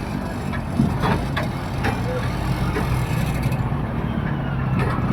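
A motor vehicle engine running steadily under a dense rushing noise, with a few faint knocks.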